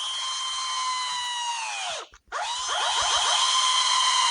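A high, steady, whining tone with several pitches stacked, heard twice. The first slides down in pitch and stops about two seconds in. After a short gap a louder second one starts and begins sliding down again near the end, like a motor winding down.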